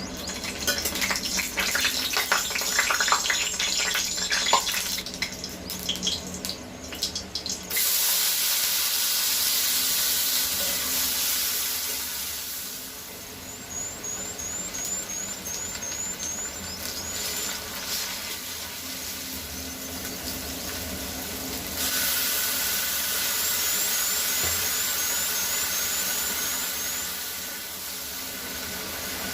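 Tap water running into a kitchen sink, with clinks and clatter of utensils being handled during the first several seconds; the running water comes in two stretches.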